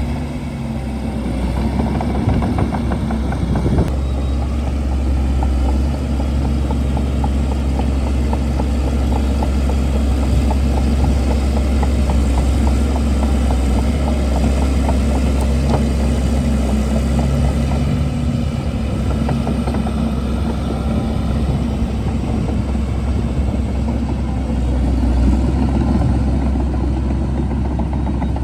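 Shantui DH17C2 bulldozer's diesel engine running steadily, a strong low hum with a dense rattle over it.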